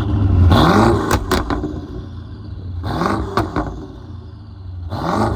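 2016 BMW 550i's twin-turbo V8, fitted with upgraded turbos, dual downpipes and a custom exhaust, revved at a standstill: three quick blips that rise and fall, the last starting near the end. Each of the first two is followed by a few sharp cracks from the exhaust.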